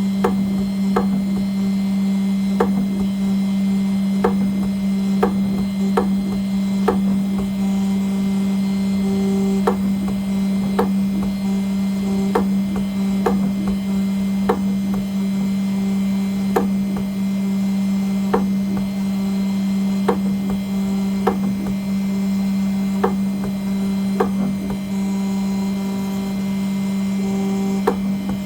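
CNC engraving machine cutting an aluminium nameplate: a steady hum from the running spindle, with sharp irregular ticks about once a second as the cutter works the metal.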